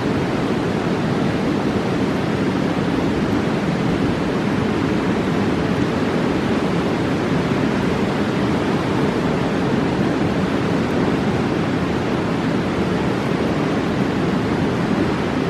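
A fast mountain river rushing steadily, a constant full water noise.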